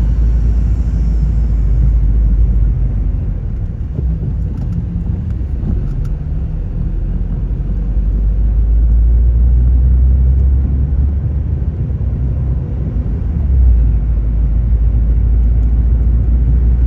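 Car on the move: a steady low rumble of road and engine noise that eases slightly and swells again, with a couple of faint ticks.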